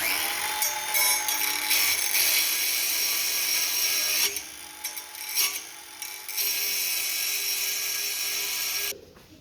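Angle grinder running and grinding into the metal of a go-kart frame: a loud, steady, high-pitched grinding with the motor's whine beneath. It eases off for about two seconds in the middle, comes back, and stops abruptly near the end.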